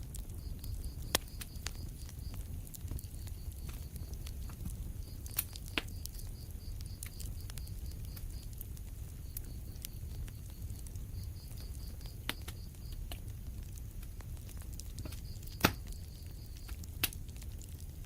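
Wood fire crackling in a fireplace: a steady low rumble of flames with sharp pops every few seconds, the loudest about three-quarters of the way through.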